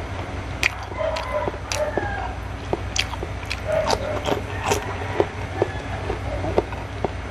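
Close-miked eating sounds: chewing and lip smacking, with irregular sharp mouth clicks, as a steamed okra pod is bitten and chewed.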